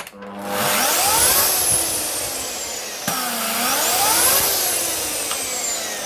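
Black & Decker GK2240 electric chainsaw's motor and chain run twice. Each time it whines up in pitch for about a second and then winds down, with a click before the second run. The saw is being tested on its chain brake after a replacement drive clutch spring was fitted.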